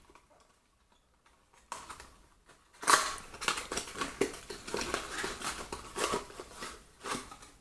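Packaging being handled while a power adapter is unwrapped: scattered clicks about two seconds in, then a dense run of rustling and sharp plastic clicks that fades near the end.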